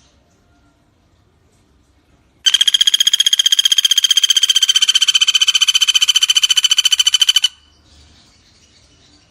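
Common flameback woodpecker (pelatuk bawang) giving one long, loud rattling trill of about a dozen notes a second. It starts about two and a half seconds in, lasts about five seconds and stops abruptly.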